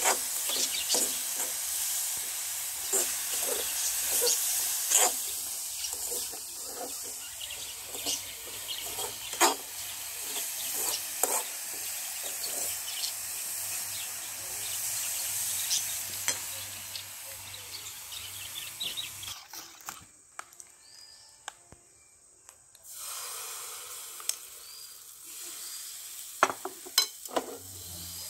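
A metal spoon stirring and scraping a grated-coconut filling as it fries in an aluminium pan on a gas burner: a steady sizzle broken by frequent spoon clicks and scrapes. About two-thirds through the sizzling stops, and a softer hiss with a few sharp knocks follows near the end.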